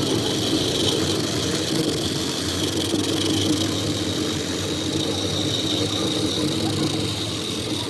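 An engine running steadily at idle, an even drone with no breaks.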